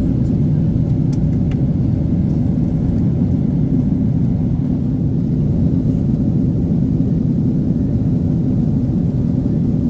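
Boeing 777-300 airliner's steady jet-engine and airflow rumble heard from inside the cabin, deep and even throughout, with a couple of faint clicks about a second in.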